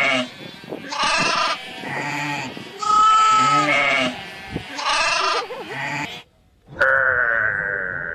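Goats bleating: a series of short calls about a second apart, then after a brief break near the end one longer, steadier call.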